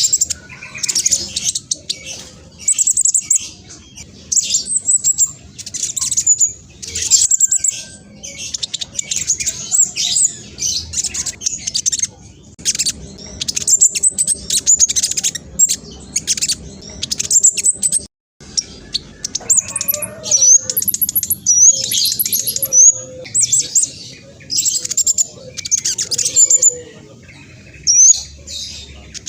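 Black sunbird singing a fast, high-pitched song of rapid chirps and trills in bursts, with short pauses between them and a brief dead gap about 18 seconds in.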